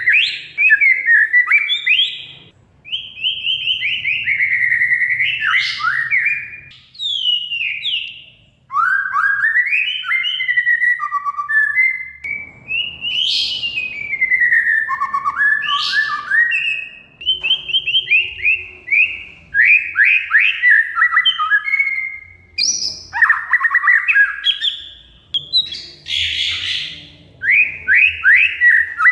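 Oriental magpie-robin (kacer) singing a loud, varied song of fast repeated whistled notes, glides and trills, with short gaps between phrases and a harsher, scratchy burst near the end.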